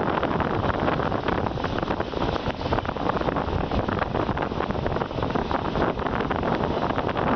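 Wind rushing over the microphone together with the steady rumble of a moving passenger train running along the track, heard from an open carriage window.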